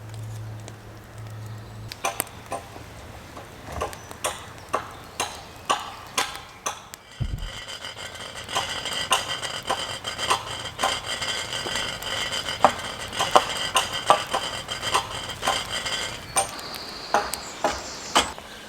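Irregular knocks and taps on wood, about one or two a second. A steady high-pitched tone sounds behind them through the middle stretch.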